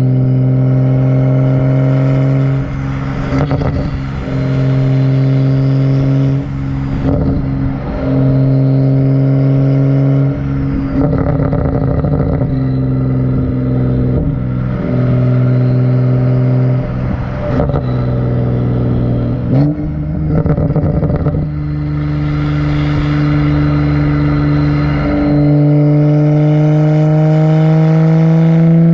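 Exhaust of a BMW 135i's N55 turbocharged straight-six, run catless with the muffler deleted, droning at a steady engine speed and broken every few seconds by short rough, crackly spells. About two-thirds of the way in the pitch steps up, then rises slowly to the end.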